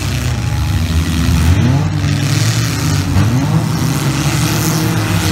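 Several demolition derby cars' engines running together and revving, their pitch rising and falling as the cars push against each other.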